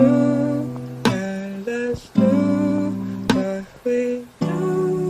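Music: acoustic guitar strummed, with chords struck every second or two and ringing on between strokes.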